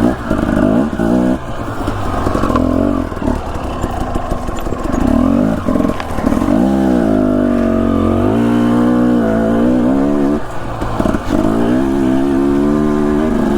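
Husqvarna TE250 enduro dirt bike engine being ridden, its pitch rising and falling with the throttle and dropping off sharply a few times as the throttle is chopped.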